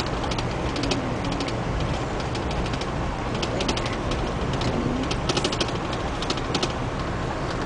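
Inside a moving Amtrak passenger car: a steady running rumble with frequent light clicks and rattles.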